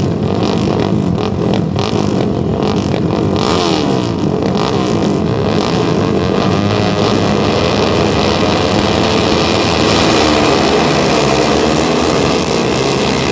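Several flat track racing motorcycles running hard together, their engine notes rising and falling and overlapping as the throttles open and close.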